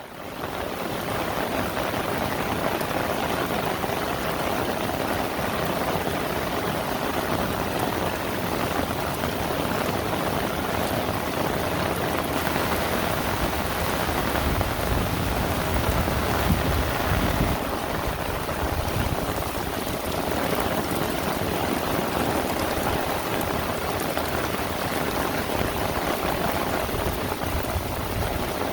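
Heavy rain falling steadily, a dense even hiss of drops, with a brief low rumble about halfway through.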